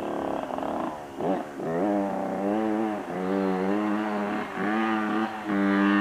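Motorcycle engine revving in a series of throttle bursts: a quick rise and fall in pitch about a second in, then several held revs broken by short drops in between.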